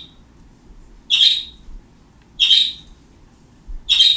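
A bird giving short, sharp calls, three of them about a second and a quarter apart.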